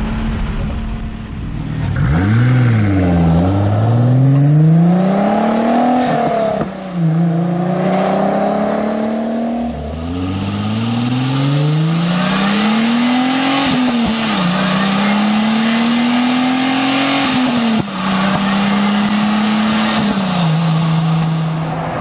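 Renault Alpine GTA's turbocharged V6, with a custom exhaust, pulling hard under acceleration. The revs climb and fall back several times as it shifts through the gears, with a faint turbo whistle rising alongside the climbs, then it settles to a steady cruise near the end.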